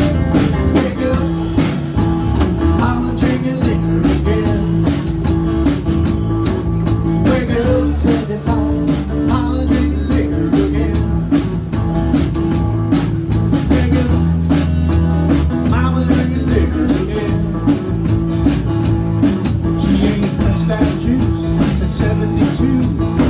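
Rock band playing live: guitar over bass and a steady drum beat in an instrumental passage.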